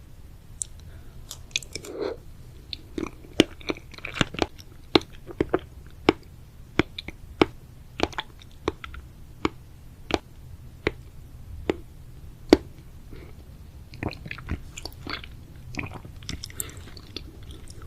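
Close-miked chewing of chewy sweets: sharp, wet mouth clicks in a steady rhythm of about one and a half per second, becoming busier and less regular near the end.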